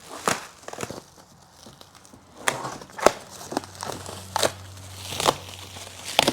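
Packaging wrap being cut with a dull knife and torn off, crinkling and crackling in irregular strokes.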